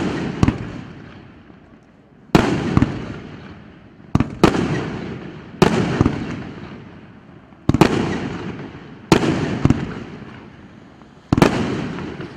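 Firework cake (battery of salutes) firing shot after shot, a sharp bang or a quick pair of bangs every one and a half to two seconds, each followed by a fading crackling tail.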